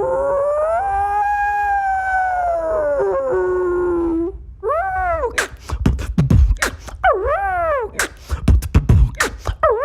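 A beatboxer's vocal imitation of a howl. One long howl rises and holds for about four seconds. Then come shorter howls that fall in pitch, about one a second, over beatboxed drum hits.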